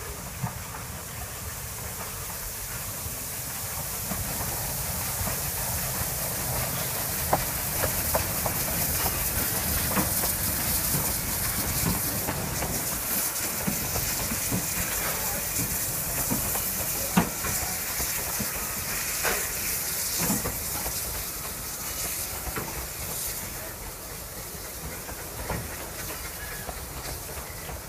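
Narrow-gauge steam locomotive hissing steam, over a low rumble with occasional sharp clanks and knocks. It grows louder over the first few seconds and eases off near the end.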